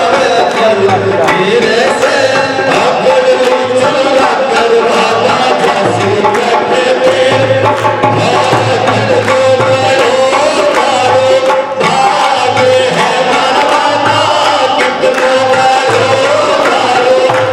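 Shyam bhajan devotional music with a steady drum beat and sharp percussion strokes under a held melody line.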